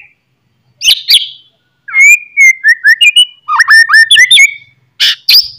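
A songbird singing loud, varied whistled phrases: a short burst about a second in, then after a pause a rapid run of sliding whistles and trills, with a louder high-pitched phrase near the end.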